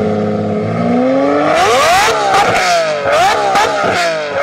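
Straight-piped V12 engine of a Lamborghini Murcielago LP640, holding a steady note, then revving: the pitch climbs about a second and a half in and then rises and falls several times in quick succession, with sharp crackles riding on the revs.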